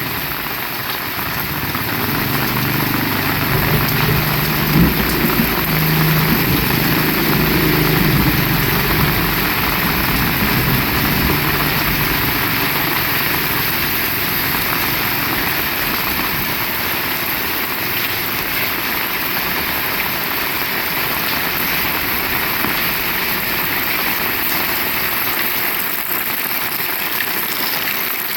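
Heavy rain falling steadily. For the first part, a motor vehicle's engine runs underneath the rain, then fades out a little before the middle, leaving only the rain.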